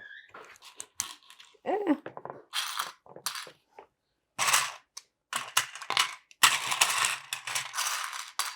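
Small plastic LEGO pieces clicking and clattering as they are rummaged through and handled, in irregular bursts with the longest stretch of rattling near the end.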